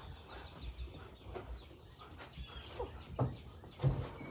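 Faint bird chirps, with a few short knocks or bumps in the last second or so.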